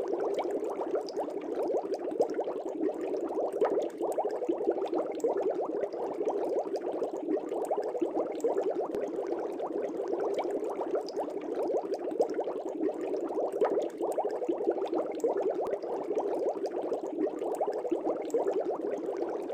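Aquarium air bubbles rising and breaking at the water's surface in a steady, dense bubbling.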